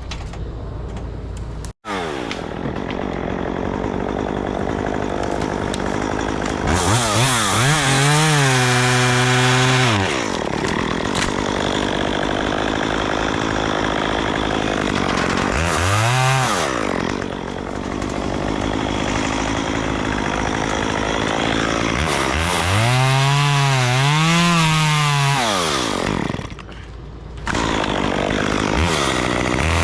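Gas chainsaw cutting tree limbs, its engine revving up and dropping back several times, with pitch rising and falling on each rev.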